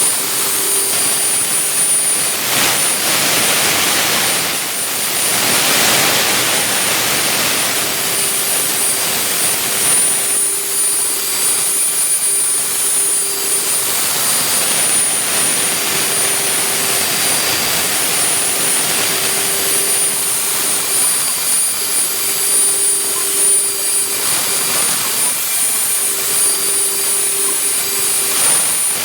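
CNC vertical milling machine running: a loud, steady rushing noise with a constant high whine, and a lower hum that comes and goes in stretches of a second or two.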